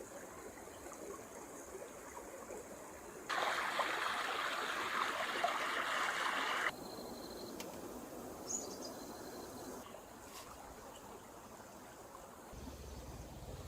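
Forest stream flowing and trickling, louder for about three seconds in the middle, starting and stopping abruptly. A brief high chirp sounds about two-thirds of the way through, and a low hum comes in near the end.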